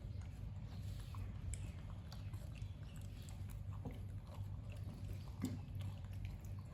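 Pet monkey chewing food: scattered small clicks and smacks over a steady low hum.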